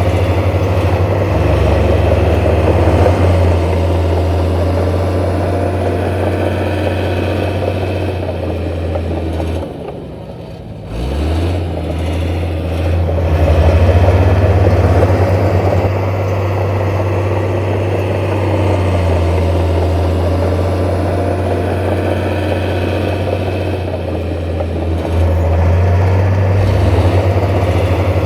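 Heavy diesel construction machinery running with a steady low engine drone; the engine drops off sharply about ten seconds in, then revs back up.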